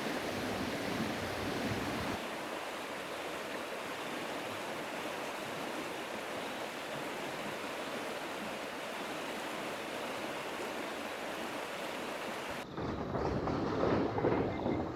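Steady rushing water, an even hiss with no rhythm; about two seconds in its deep rumble drops away. Near the end it cuts abruptly to a different, louder and more uneven noise.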